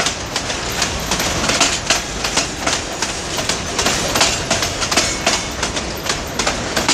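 Freight train wagons rolling past, their steel wheels clacking over the rail joints in a quick, uneven run of clicks over a steady rumble.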